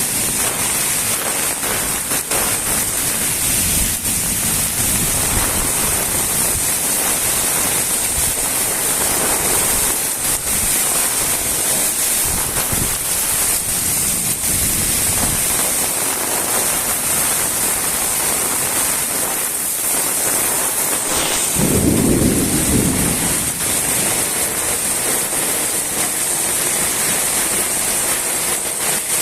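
Steady, fairly heavy rain falling, with a low rumble lasting a couple of seconds about three-quarters of the way through.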